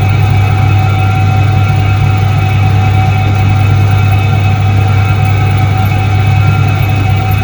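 1978 Soviet Iset-3 washing machine running: a loud, steady motor hum with constant higher whining tones over it, unchanging throughout.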